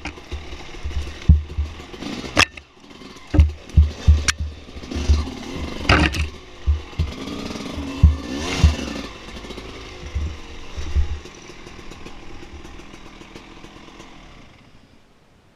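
Dirt bike engine revving up and down, with sharp knocks and heavy low thumps through the first half. The engine sound dies away over the last few seconds.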